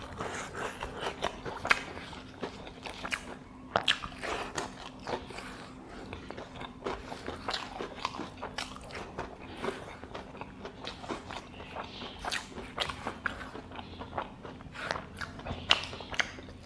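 A person chewing food close to a clip-on microphone: an irregular, continuous run of small crunches and mouth clicks.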